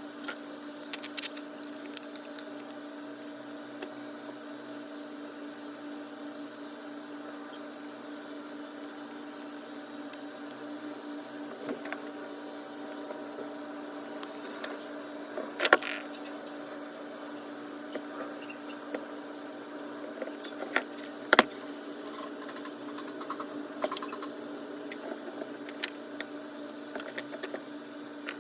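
Scattered clicks and light knocks of metal and plastic parts being handled while an angle grinder is put back together, with two louder knocks about 16 and 21 seconds in. A steady hum runs underneath.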